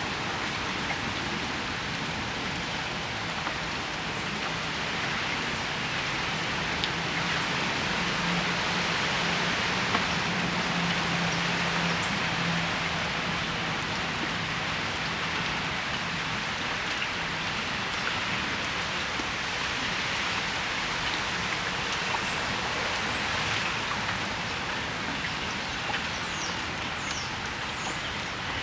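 Steady rain falling on a patio: a constant even hiss of drops. A faint low hum of a vehicle on the wet street rises and fades in the first half.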